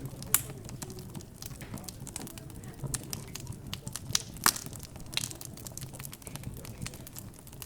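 Wood fire crackling, with irregular sharp pops, the loudest at about half a second and about four and a half seconds in, over a low murmur of background chatter.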